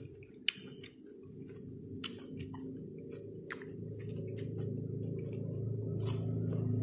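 Chewing crunchy raw fruit: irregular crisp crunches and wet mouth clicks. A low hum underneath grows steadily louder.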